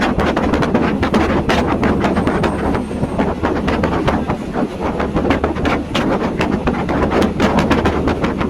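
Train running along the track, heard from aboard: a steady loud rumble of wheels on rails with many sharp, irregular clicks and knocks.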